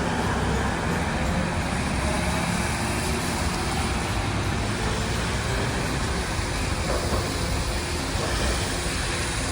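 Steady street traffic on a rain-wet road: vehicles and trams running, with the even hiss of tyres on wet pavement and a low rumble.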